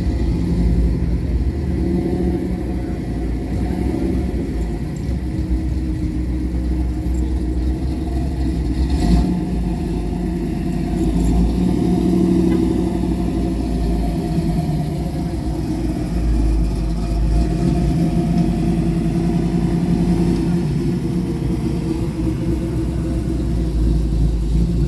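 Steady low rumble of a car engine running, with a brief knock about nine seconds in.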